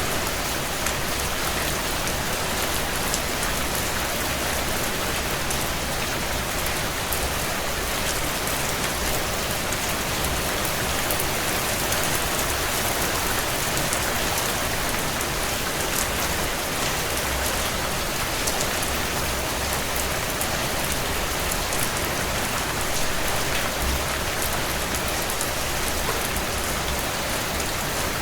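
Heavy rain falling steadily on a window, with faint scattered crackles from a wood fire in a fireplace.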